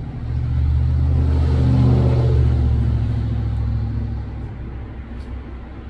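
A motor vehicle's engine driving past: a low rumble that swells, peaks about two seconds in and fades away.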